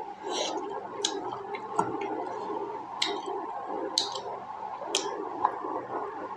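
Close-up chewing of juicy pork momo: wet mouth smacks and clicks, roughly once a second, over a steady background hum.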